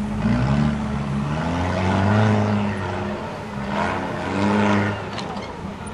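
Off-road 4x4 trial vehicle's engine revving hard under load as it climbs a steep rock slope, its pitch rising and falling in two big surges.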